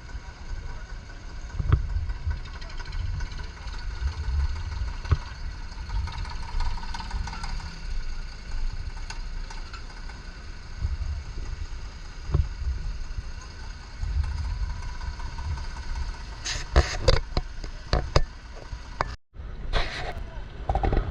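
Vehicle engine running with a steady low rumble, with a few sharp, loud knocks or voices late on.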